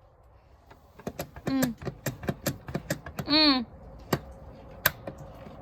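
A quick run of sharp light clicks or taps, about four or five a second for two seconds, with two lone clicks later. A person's short pitched 'ooh' sounds twice among them.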